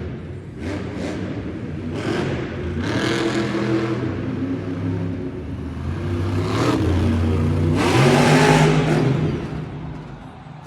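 Monster truck's supercharged V8 engine revving up and dropping back over and over, with several loud swells, fading away near the end.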